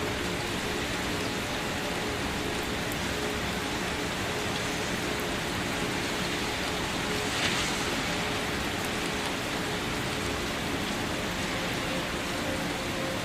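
Steady rain falling and pattering on a surface, with one brief louder splash about halfway through.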